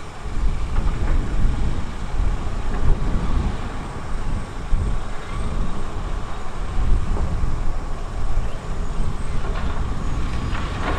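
Heavy diesel earthmoving machinery running: a continuous low, rough engine rumble that rises and falls, with a faint steady whine above it.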